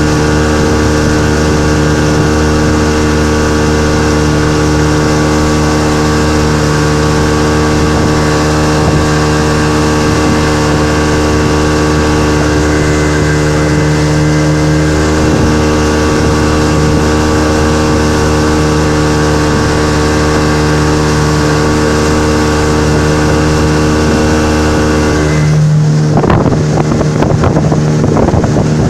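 Suzuki DT30 two-stroke outboard motor running steadily at constant revs. Near the end the steady tone briefly breaks up into a rougher, gustier noise.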